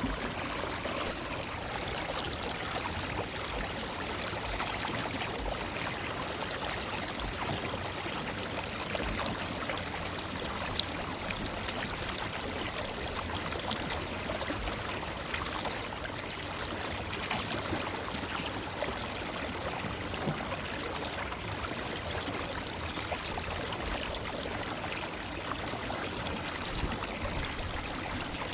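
River water running steadily over stones, a continuous even rush with small splashes and trickles, and a single sharper splash about 11 seconds in.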